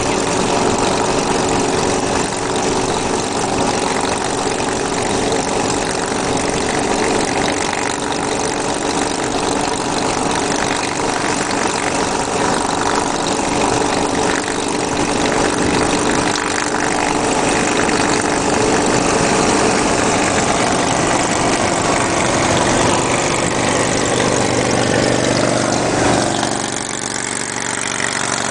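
Vehicle engine running steadily with a constant hum, easing off a little near the end.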